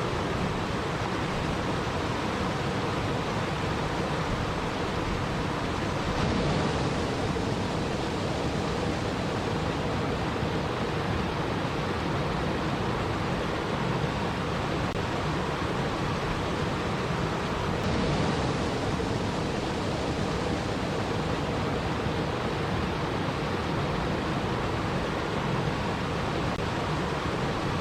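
Steady, unbroken rushing water noise, with a slight swell about six seconds in and again around eighteen seconds in.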